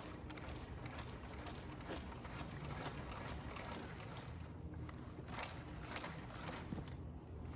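Sur-Ron electric dirt bike riding, heard faintly as a low hum with a continuous light clicking and rattling.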